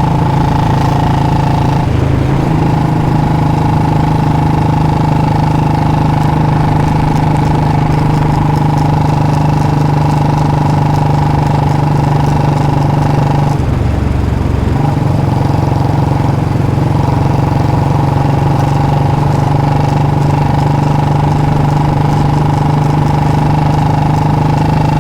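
Modified Royal Enfield Bullet 350's single-cylinder engine running at steady revs through a free-flow C-bend pipe and mini Punjab silencer. Its note breaks off briefly about two seconds in and again around fourteen seconds.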